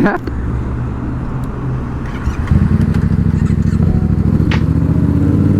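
A vehicle engine running at idle, its speed stepping up and getting louder about two and a half seconds in, then holding steady.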